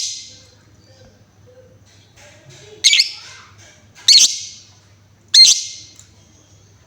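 Female lovebird giving four short, loud, harsh shrieks, one at the start and the last three about a second apart, with faint chirps between them.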